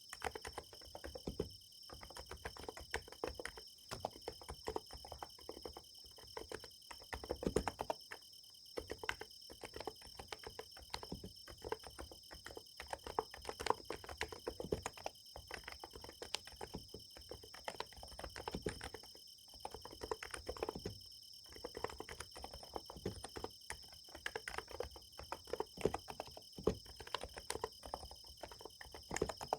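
Fast, irregular typing on a Niz Plum x108 electrostatic capacitive keyboard, a steady patter of soft key clicks, over a continuous high-pitched chorus of night insects.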